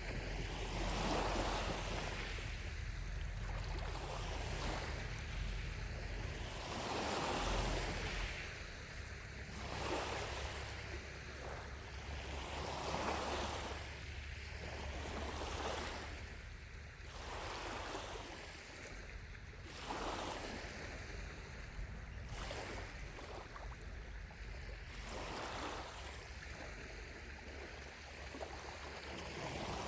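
Small lake waves lapping on the shore, each soft wash swelling and fading every two to four seconds. Above them runs a steady high hiss of distant cicadas.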